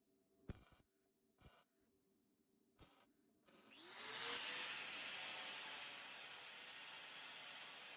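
A few short knocks of handling, then a power tool's motor spins up with a rising whine about three and a half seconds in and runs on steadily with a strong hiss.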